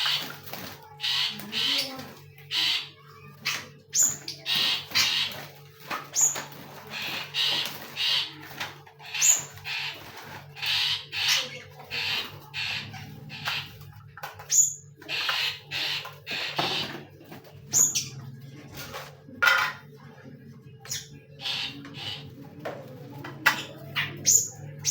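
Caged birds calling: many short, harsh squawking calls in quick runs, one after another, over a steady low hum.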